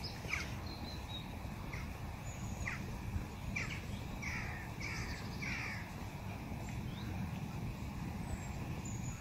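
A bird calling: a run of about eight short, falling calls over the first six seconds, coming closer together toward the end, over a steady low background rumble.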